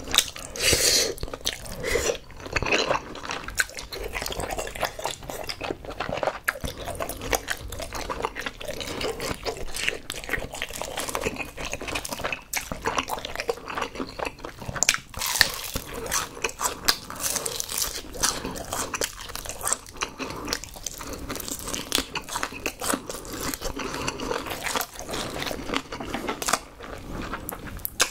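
Close-miked eating sounds: a man chewing spicy rice cakes (tteokbokki) and biting into pieces of fried chicken, with many small wet mouth clicks, smacks and crunches.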